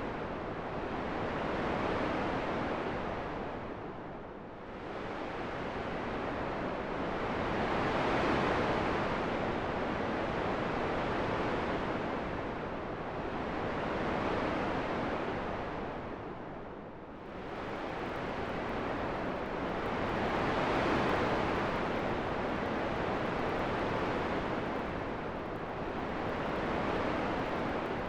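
Wind blowing in slow gusts: a rushing noise that swells and eases, dipping twice, about four seconds in and again past halfway.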